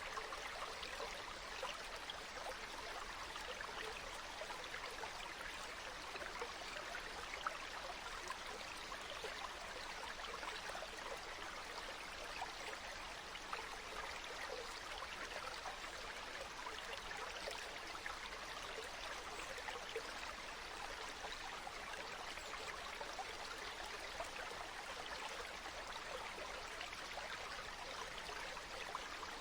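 Flowing stream water, a steady babbling rush with fine splashes and no breaks.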